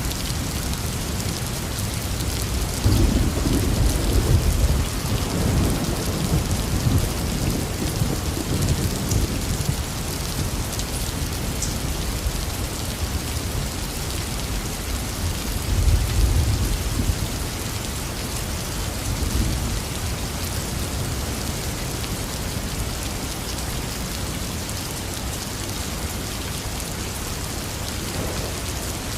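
Heavy rain falling steadily, with thunder rumbling low about three seconds in for several seconds, and a shorter rumble again about halfway through.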